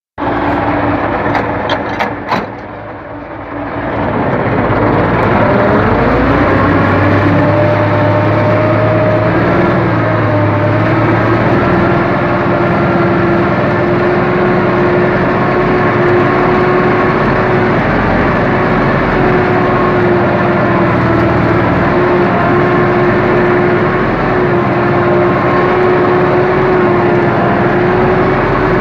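Diesel engine of a UTB Universal 650 tractor ploughing. A few clicks in the first couple of seconds, then the engine revs up about four seconds in and runs steadily.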